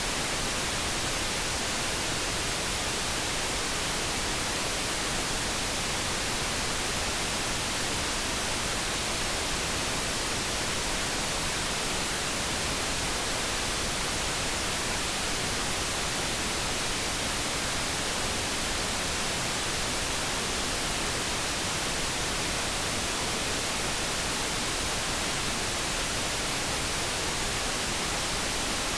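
Steady generated light brown noise: an even, unchanging hiss with no tones or other events.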